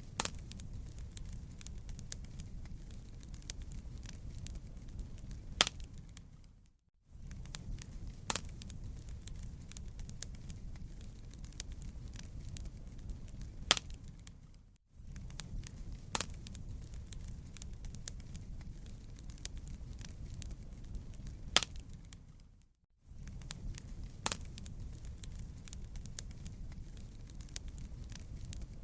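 Wood fire in a fireplace crackling, with a steady low rumble and a scatter of sharp pops. The sound drops out for a moment about every eight seconds and fades back in, as a short looped recording does.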